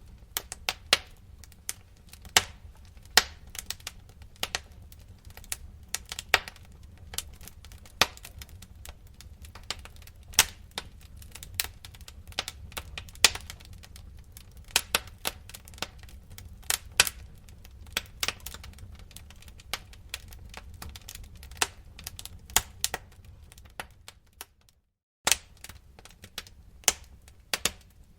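Wood fire crackling in a fireplace: irregular sharp pops and snaps of varying loudness over a low steady rumble. The sound cuts out for a moment near the end.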